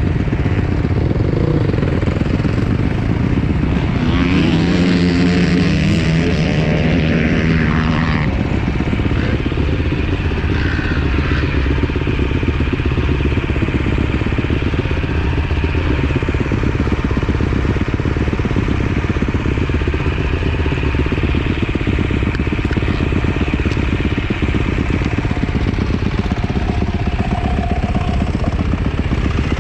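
Yamaha YZ450F motocross bike's single-cylinder four-stroke engine running, at a steady loud level, with a stronger pitched stretch about four to eight seconds in.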